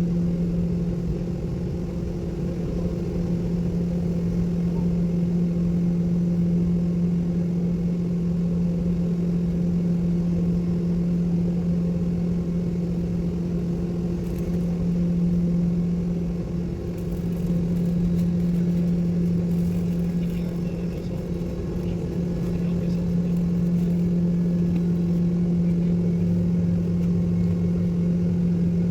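Airliner cabin noise: the engines' steady low drone, a hum with a fainter higher tone above it, over a constant rush of air.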